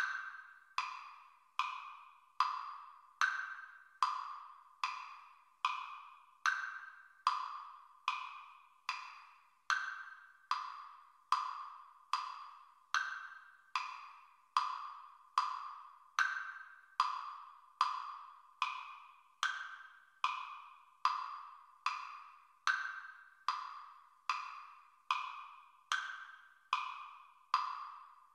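Metronome clicking steadily at a little over one beat a second, a wood-block-like tick with a higher-pitched accented click on every fourth beat.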